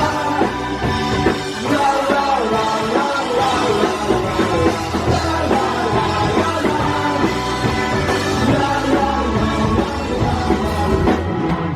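A live punk rock band playing loud, with drums and electric guitars.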